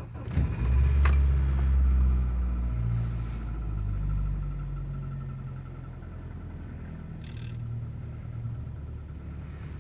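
Audi ACE engine on a cold morning start: it catches about half a second in, runs fast for a couple of seconds, then settles over several seconds to a steady idle.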